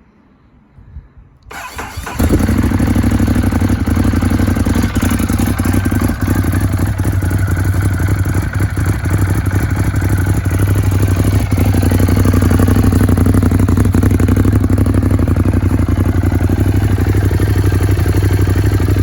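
A 2015 Ducati Monster 821's L-twin engine is started from stone cold. The starter cranks briefly about a second and a half in, the engine catches right away, and it then idles steadily without being revved.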